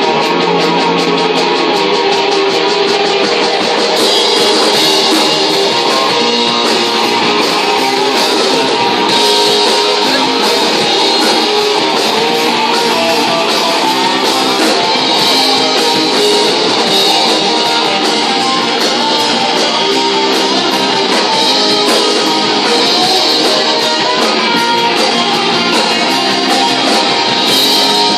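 Live rock band playing loud electric guitar with drums, an instrumental stretch of a song.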